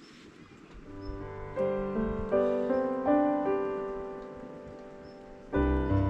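Solo piano background music that comes in about a second in: gentle notes struck and left to ring, with a louder chord near the end, over a faint hiss.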